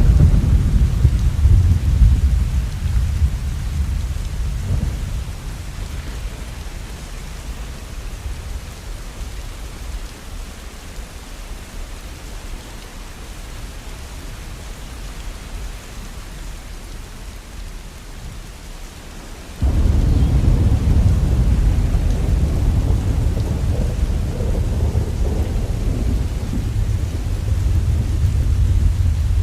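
Steady rain with rolling thunder: a deep rumble fades away over the first several seconds, leaving the rain alone, then a second loud rumble comes in suddenly about two-thirds of the way through and keeps rolling.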